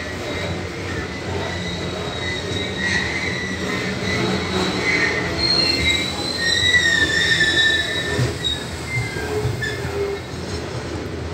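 Coal hopper wagons of a long freight train rolling past with a steady rumble, and wheels squealing in high, shifting tones off and on from about three to eight seconds in.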